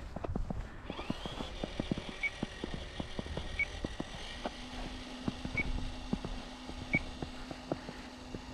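Electric RC truck running: a faint motor whine rises about a second in and then holds steady, over irregular clicks and clatter.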